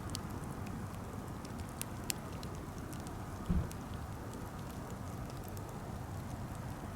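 Wood campfire, plausibly burning birch, crackling over a steady hiss, with scattered sharp pops and one low thump about halfway through.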